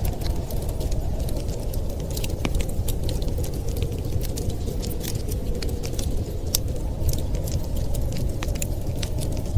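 Wood fire crackling in a fireplace, with many small irregular pops, over a steady low rush of winter wind.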